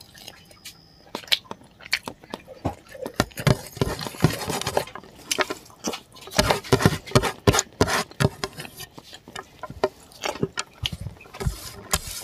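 Close-miked wet chewing and lip smacking as rice with spicy pork gravy is eaten by hand: a run of irregular smacks and clicks, busiest in the middle. Near the end comes a hand scraping across a plate.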